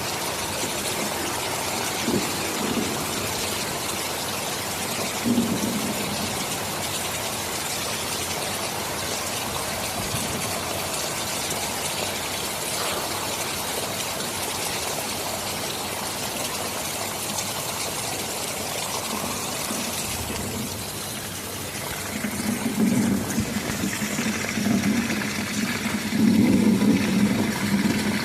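Steady heavy rain, with low rumbles of thunder rolling in a few times, the longest and loudest in the last several seconds.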